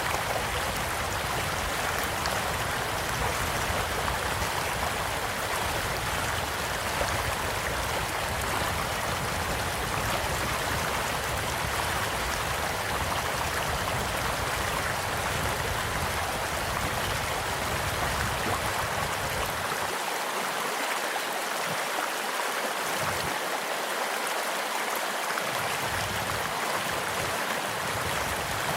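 Small stream flowing steadily in a continuous rushing babble, with a few faint crackles from a campfire beside it.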